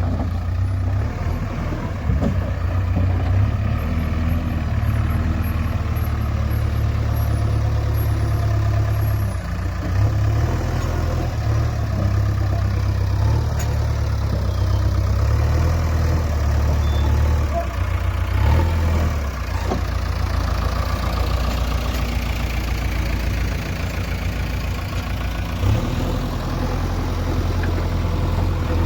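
Heavy diesel engine running steadily at low speed, with a few brief knocks.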